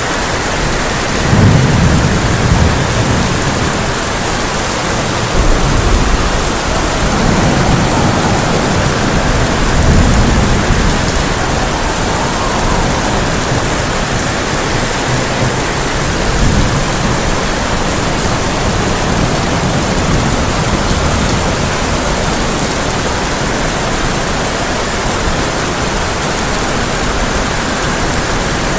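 Heavy rain pelting a tin roof in a steady hiss, with deep rolls of thunder rumbling through several times, the strongest in the first ten seconds or so.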